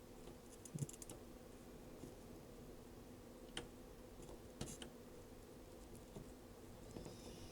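Faint, scattered small clicks and light taps, about five in all, over a low steady hum.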